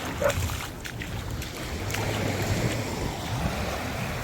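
Shallow Gulf surf washing at the shoreline, with wind buffeting the phone microphone in a steady low rumble.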